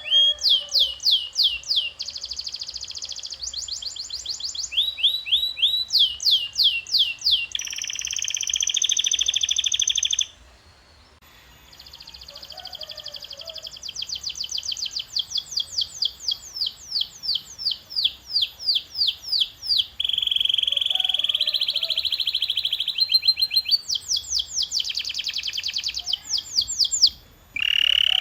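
Domestic canary singing: a long song of rapid repeated phrases, each a quick run of identical sweeping notes or a fast buzzy roll held for a second or two before switching to the next. There is a brief break about ten seconds in.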